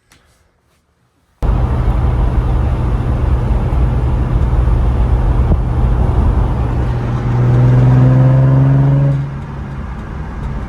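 Infiniti G35's VQ35DE V6 engine and exhaust while driving, steady at first. It rises in pitch and grows louder under acceleration from about seven to nine seconds in, then eases off. Before that, a moment of near silence with a few faint clicks.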